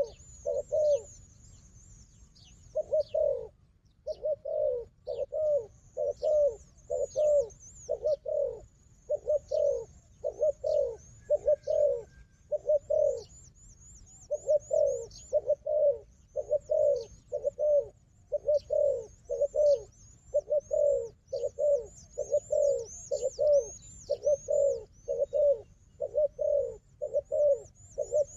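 Spotted doves cooing in a rapid, continuous run of short low coos, a few a second, with brief pauses about two seconds in and near the middle. High, quick chirps from small birds sound throughout.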